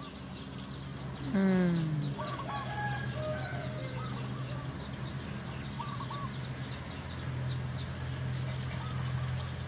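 Birds calling: short chirps repeating every second or two over a constant high twittering, with one louder falling call about a second in. A steady low hum runs underneath.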